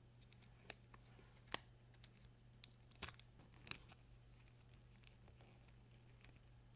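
Faint, scattered clicks and taps of small packaging being handled and opened during a toy unboxing, the sharpest about a second and a half in, over a low steady hum.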